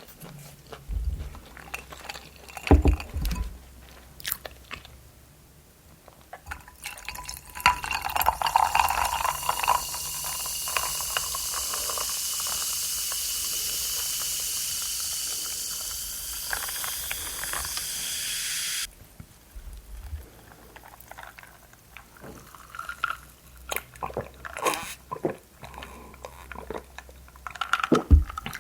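Close-miked eating: crunching, biting and chewing clicks. In the middle, a steady rush of liquid runs for about ten seconds, its pitch rising slightly, and stops abruptly.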